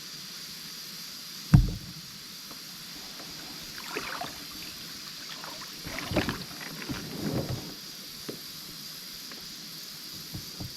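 A sharp, loud thump about one and a half seconds in, then a few softer knocks and scrapes of fishing gear on a kayak, over a steady background hiss.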